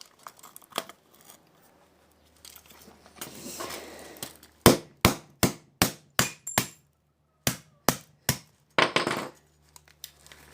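A phone's insides being broken apart with a tool: a run of about nine sharp knocks in quick succession, with crinkling and scraping of the parts before and after.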